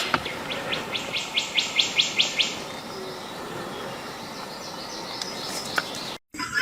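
A bird calling: a quick, even series of about a dozen short high chirps, around five a second, that stops about two and a half seconds in. A steady faint outdoor background follows.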